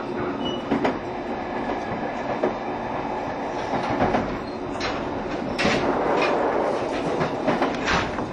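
Cabin running noise of a JR Shikoku 7200-series electric train under way: a steady rumble with sharp wheel clicks over rail joints, more of them in the second half.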